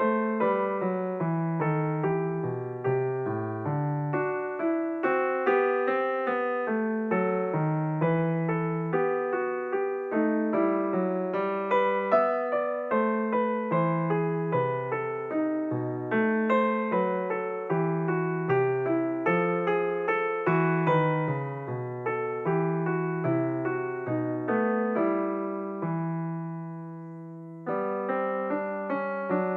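Background piano music, a steady run of notes with one held chord that fades out near the end before the playing picks up again.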